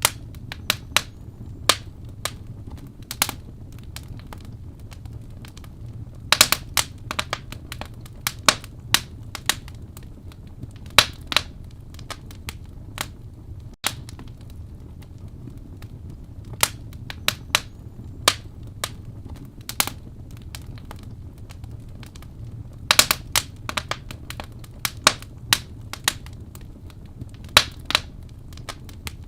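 Wood fire burning in a fireplace, crackling with irregular sharp pops, some in quick clusters, over a steady low rumble.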